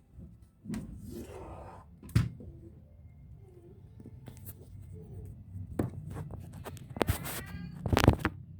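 Close handling noises from working on a laptop by hand: a scraping rustle, several sharp clicks and knocks of plastic and small parts, and a brief rising squeak a little after the middle.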